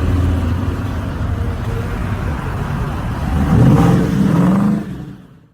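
Car engine running with a low, steady rumble, then revving louder about three and a half seconds in before fading out.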